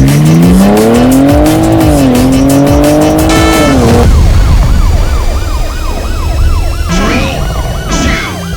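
BMW turbocharged straight-six accelerating hard, the revs climbing, with one upshift about two seconds in, then climbing again until the sound cuts off about four seconds in. After that, music with repeating swooping tones.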